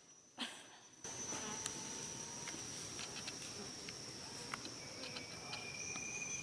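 Steady high-pitched drone of insects in the surrounding vegetation, with scattered small clicks and rustles. A sharp knock comes about half a second in, and the sound gets suddenly louder about a second in.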